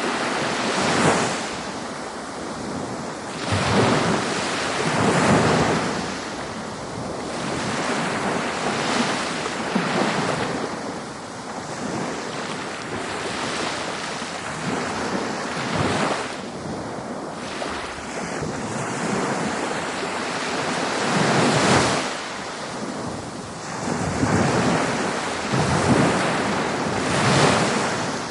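Ocean waves breaking on a beach, a continuous wash of surf that swells every few seconds as each wave comes in.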